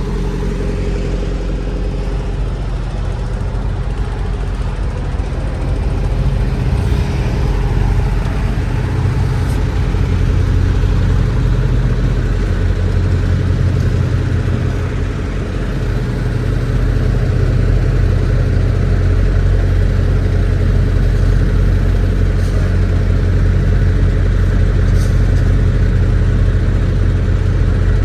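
Semi-truck diesel engine running steadily, getting louder a few seconds in and again a little past halfway as it pulls.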